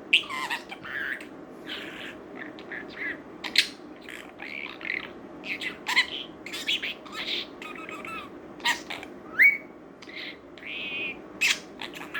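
Pet budgerigar chattering: a rapid, unbroken string of short chirps, clicks, squawks and warbling notes.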